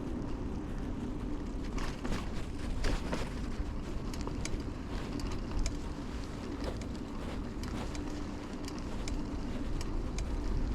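2000 Kona Blast mountain bike being ridden: steady tyre and road rumble with wind buffeting on a chest-worn mic, and scattered small clicks and rattles.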